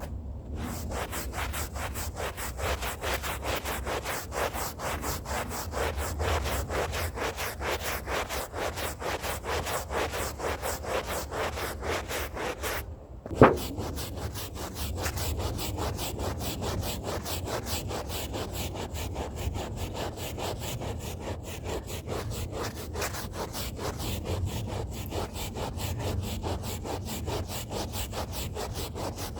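A stiff hand brush scrubbing a rug's fibres in rapid, even back-and-forth strokes. About halfway through the strokes stop for a moment, there is a single sharp knock, and the scrubbing starts again.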